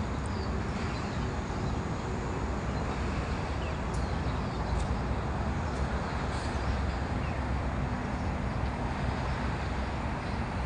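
Steady outdoor background noise with a low rumble, with a few faint, short high chirps in the middle.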